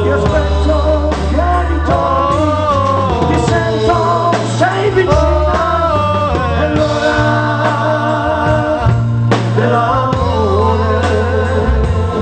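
A live pop band playing: a held, wavering melody line over steady bass and drums.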